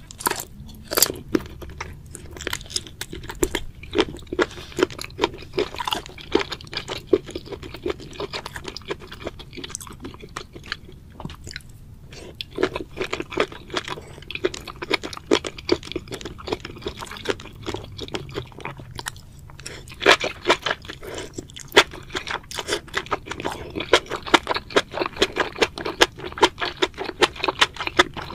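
A person chewing spicy sauced squid and enoki mushrooms close to the microphone: a steady run of wet, clicking, crunching chews, several a second.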